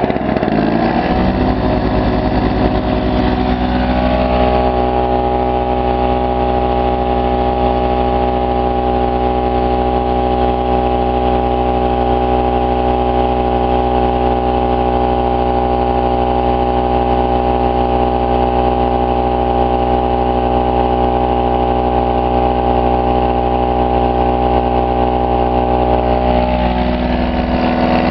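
Pulsar PG1202S generator's 72cc two-stroke engine running under the load of a plugged-in electric air compressor, with the compressor running alongside. The pitch drops in the first second or so as the load comes on, holds steady, then shifts again near the end.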